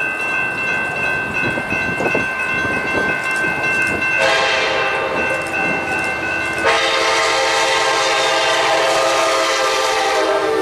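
Train passing a grade crossing: a horn sounds a shorter blast about 4 seconds in, then a long, louder blast from about 7 seconds in to near the end. Under it are the rumble of the train and the steady high ringing of the crossing signal bell, which carries on to about 7 seconds.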